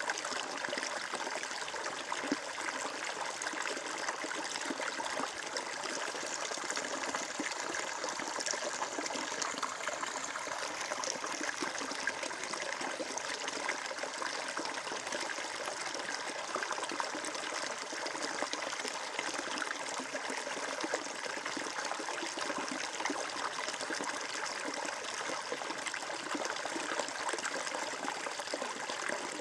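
A stream of water flowing and trickling steadily, a continuous splashing burble.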